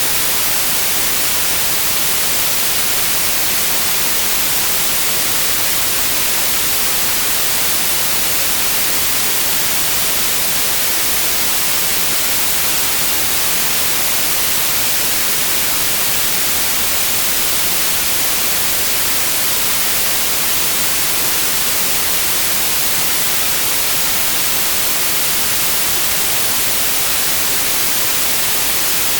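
Synthetic white noise: a steady, even hiss across all pitches, brightest in the highs, unchanging throughout.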